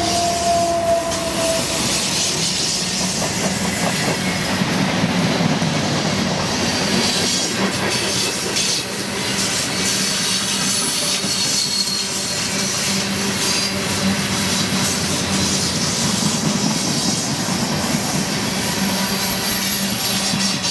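Freight train cars rolling past close by: a continuous rumble and rattle of steel wheels on the rails, with faint high wheel squeals now and then. A steady tone carried over from the passing locomotives fades out within the first two seconds.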